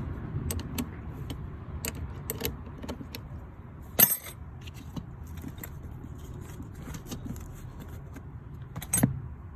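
Scattered metallic clicks and clinks of a hand wrench working on car battery terminal and bracket hardware, with one loud knock about four seconds in.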